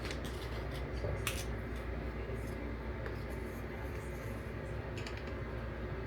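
A few light clicks and scrapes of kitchen utensils over a steady low hum.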